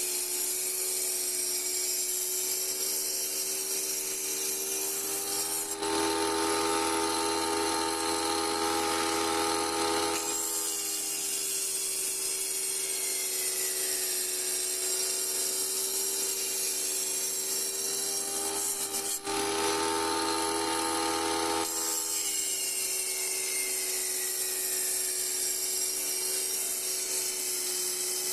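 Electric wet saw running, its water-cooled blade cutting through a glass bottle. The motor sound grows louder for a few seconds twice, about six seconds in and again near twenty seconds in, as the blade takes the glass.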